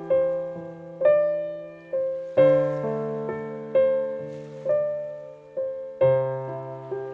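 Slow, gentle solo piano music: single notes and soft chords struck about once a second, each ringing and fading, with deeper bass notes joining twice.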